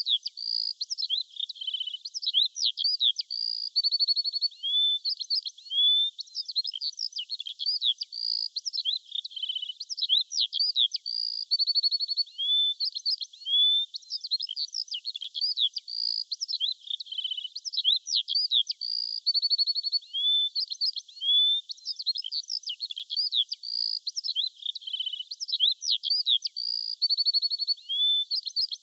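Songbirds chirping and singing continuously, with quick chirps, short rising whistles and fast trills overlapping. The sound is all high-pitched, with no low sounds underneath.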